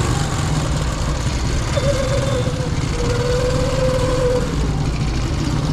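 Honda Super Cub 90's single-cylinder four-stroke engine running steadily.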